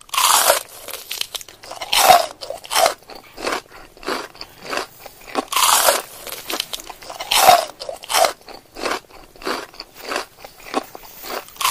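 Biting into and chewing sineguelas (Spanish plums): a loud crunchy bite every second or two, with smaller crunches of chewing between.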